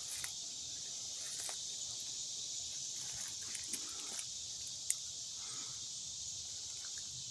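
Steady high-pitched chorus of insects, with a few faint clicks and rustles over it.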